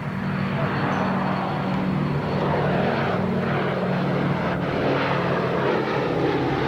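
Propeller-driven Curtiss P-40 fighter flying over with its piston engine running in a steady drone.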